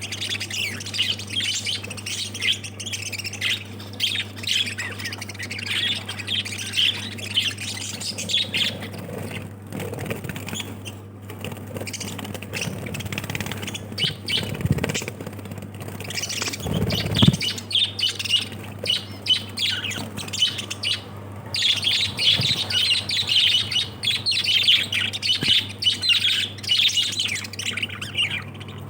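Many small pet parrots chirping and squawking in a continuous chatter, busiest at the start and again over the last third. A steady low hum runs underneath.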